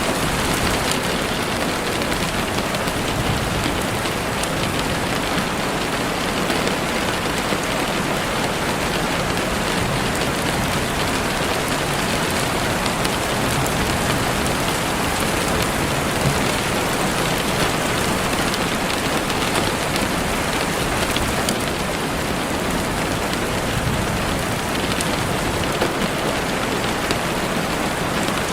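Heavy, steady rain falling on leaves and the ground, a dense even hiss with scattered individual drop ticks.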